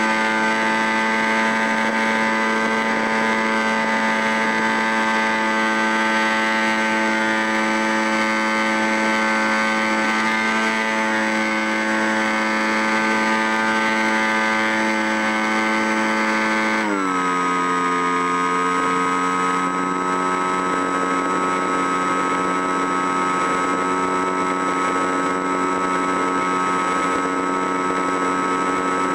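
A machine running with a steady, pitched hum; about 17 seconds in its speed drops suddenly, the pitch falling and then holding steady at the lower note.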